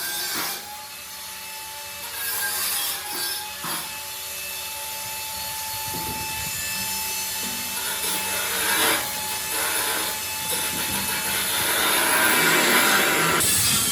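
Workshop tool work: a rasping, sawing-like scrape of a tool cutting or abrading material, with a faint steady whine underneath and several short louder strokes, growing louder near the end.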